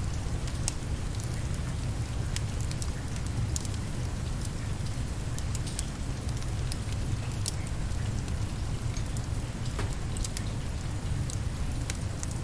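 Steady rain over a low, even rumble, with many scattered sharp crackles of a wood fire.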